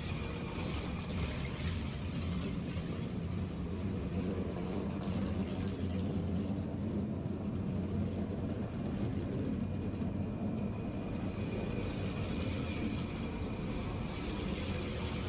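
Steady low rumble and hum beside a standing electric passenger train, with a faint high whine that fades out in the middle and comes back near the end.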